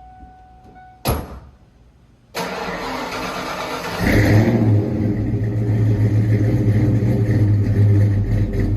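1992 Ford Mustang LX cold start: a sharp clunk about a second in, then the starter cranks for a second and a half and the engine catches and settles into a steady, fast cold idle.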